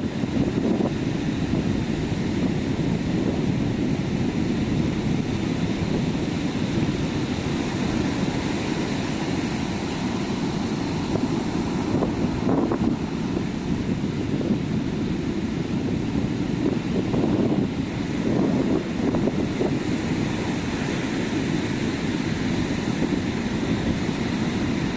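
Sea waves breaking and washing on a beach in a continuous low rush, with wind buffeting the microphone. A few waves swell up louder, about halfway through and near the end.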